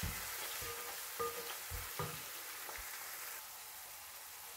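Onion and leek frying gently with sweet paprika in olive oil, a soft sizzle, with a few short taps and scrapes of a wooden spoon stirring in the first couple of seconds; the sizzle thins out after about three seconds.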